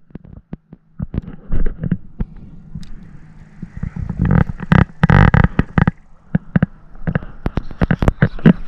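Handling noise aboard a plastic kayak: a dense run of knocks, clicks and scrapes against the hull, with a longer rushing wash about four to six seconds in.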